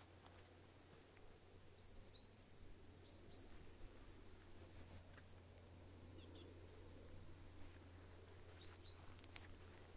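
Small birds chirping faintly: short high chirps in scattered little groups, the loudest cluster about halfway through.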